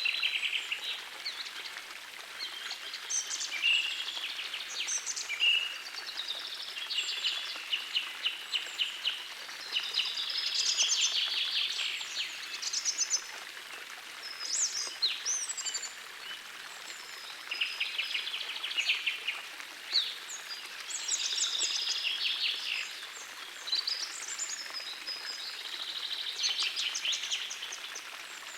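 Songbirds singing in short phrases every two to three seconds, many with rapid trills, over the steady rush of a small forest stream.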